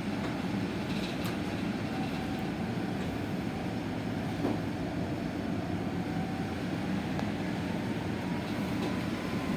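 Inside a moving electric bus: steady cabin rumble of the running bus, with a faint whine that rises slowly in pitch in the second half.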